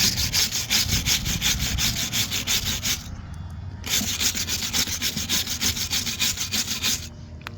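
Rapid back-and-forth scrubbing strokes, about five or six a second, of a brush or abrasive rubbed hard over a surface. They pause briefly about three seconds in, resume, and stop shortly before the end.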